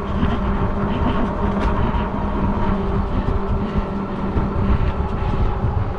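Electric bike ridden at speed: wind rumbling on the microphone and tyre noise, with a steady whine running through it.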